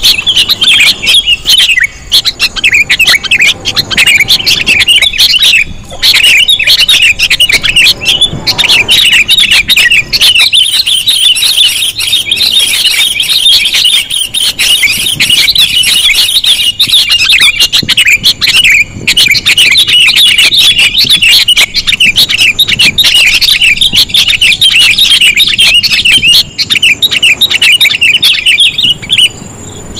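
Sooty-headed bulbuls (kutilang) chattering in a dense, unbroken stream of rapid, loud chirps: a bird-trapping lure call. The calling breaks off briefly just before the end.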